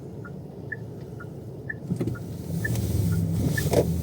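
A car's turn-signal indicator ticking in a steady tick-tock, about one pair of clicks a second. About two seconds in, the car's engine hum grows louder as the car pulls away.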